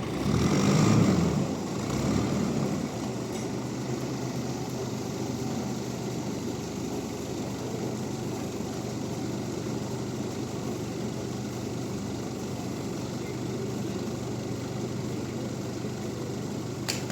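An engine running steadily at idle, louder for the first two seconds or so.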